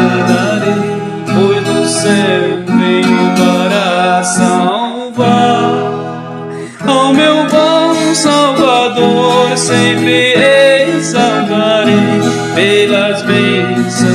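Viola caipira, the ten-string Brazilian folk guitar, playing a hymn melody over a steady bass accompaniment, stopping abruptly at the end.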